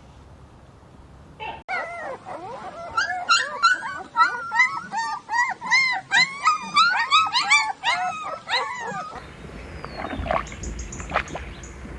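A canid's rapid, high-pitched yips and whines, several short arching calls a second, overlapping at times. They run for about seven seconds and break off abruptly.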